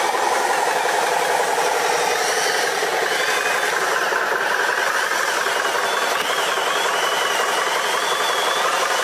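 Radio-controlled model truck running, its motor and drivetrain giving a steady mechanical whir.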